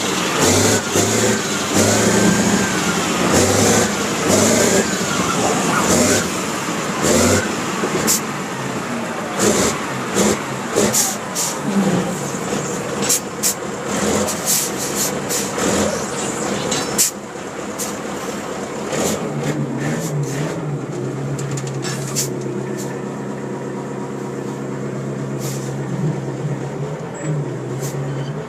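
Caterpillar mining truck's diesel engine running, its pitch shifting during the first half and settling to a steady drone later, with scattered sharp clicks.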